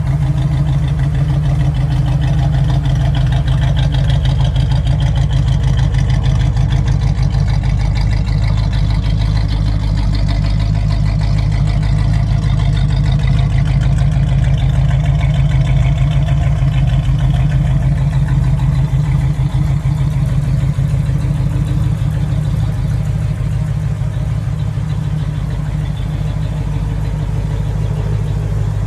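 1968 Pontiac Firebird's engine idling steadily.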